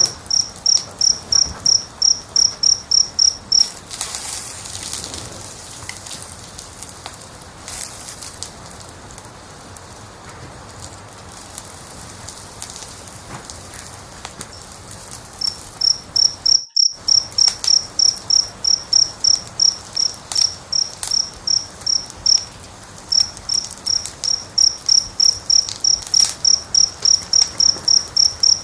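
A cricket-like insect chirping in loud, even high-pitched pulses, about three a second. About four seconds in the chirping stops, leaving a wood fire crackling and hissing for some ten seconds. The chirping then resumes, broken once by a brief silent dropout.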